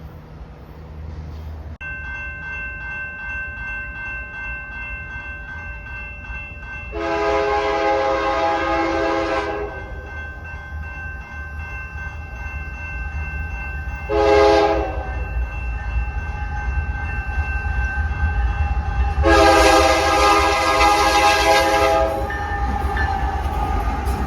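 Locomotive air horn sounding a long blast, a short blast and a long blast over the rumble of a passing train, with a steady ringing tone underneath from about two seconds in.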